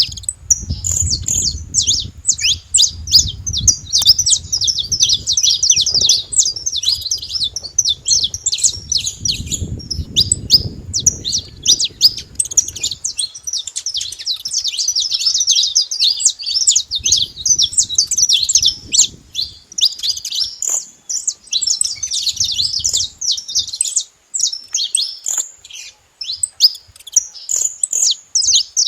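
A flock of saffron finches chirping and calling together, many quick high chirps overlapping in a continuous chatter that thins out to scattered calls in the last third.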